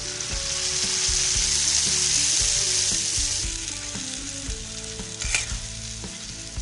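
Onion-tomato masala sizzling in hot oil in a kadhai, a little water just added to soften the tomatoes, while a spatula stirs and scrapes the pan. The sizzle is strongest in the first few seconds and eases after, with a sharper scrape about five seconds in.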